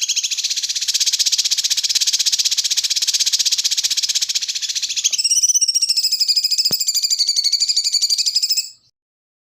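Recorded songbird call used as training song for murai batu: a fast, buzzing trill for about five seconds, then a pulsing, rasping call with a wavering pitch that stops abruptly near the end.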